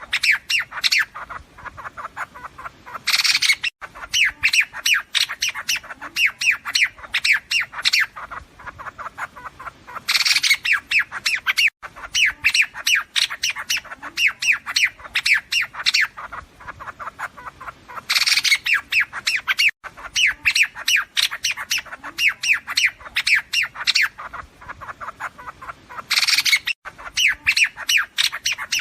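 Liếu điếu birds calling in a looped lure recording: a harsh squawk followed by a long run of rapid, chattering notes, the whole sequence repeating about every eight seconds.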